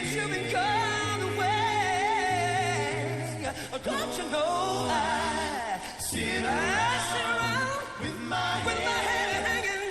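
Male voices singing a slow soul ballad in close harmony: a lead voice glides and ornaments the melody over held backing harmonies and steady low bass notes.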